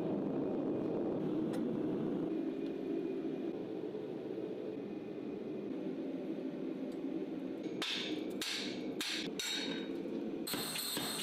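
A steady low hum, then a few hammer blows on steel near the end, each with a short ring.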